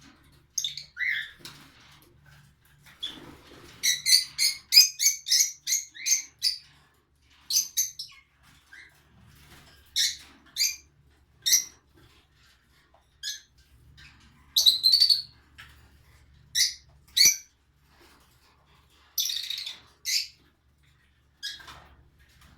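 Lovebirds giving short, sharp chirps in irregular clusters, with a quick run of them about four seconds in and scattered calls after.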